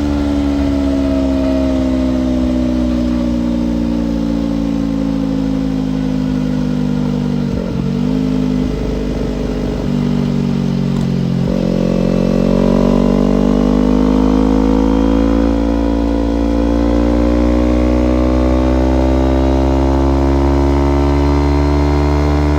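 Kawasaki Ninja parallel-twin motorcycle engine under way: the revs fall steadily for the first several seconds and break off briefly twice, about eight and eleven seconds in. After that they climb and hold fairly steady.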